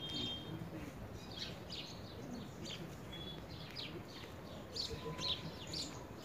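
Small birds chirping: short, high chirps, about two or three a second, over a low, steady outdoor background.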